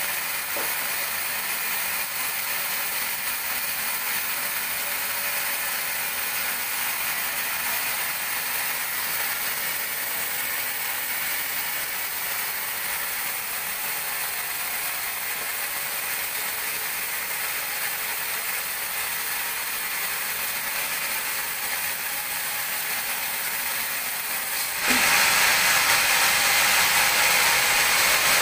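Large sawmill band saw running steadily. It becomes suddenly louder and harsher near the end.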